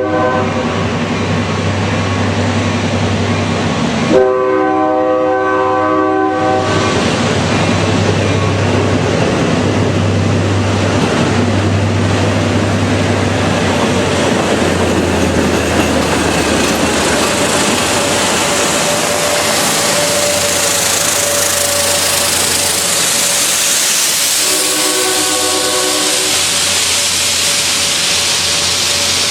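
Train horn sounding a multi-note chord: a brief note right at the start, a long blast about four seconds in, and a shorter blast near the end. Underneath, the train runs steadily past, with a low engine hum early on and a growing hiss of wheels and rolling noise in the second half.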